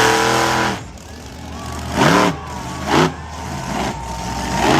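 Monster truck engine blipped hard: one rev dropping away just under a second in, then three short, sharp revs about a second apart over a steady low idle.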